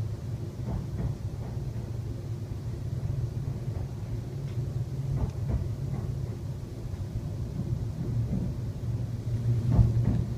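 Class 350 Desiro electric multiple unit running through a tunnel, heard from inside the passenger saloon: a steady low rumble from the wheels on the rails, with a few faint knocks and a louder thud near the end.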